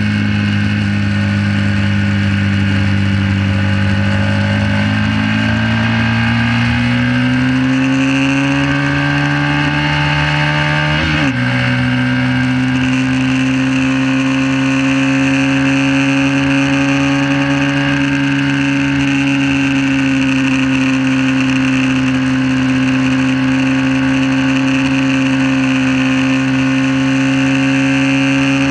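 1968 Honda CB350's air-cooled parallel-twin four-stroke engine running hard, heard from on board the bike. Its pitch climbs steadily under acceleration for several seconds, dips briefly about eleven seconds in, then holds steady and high.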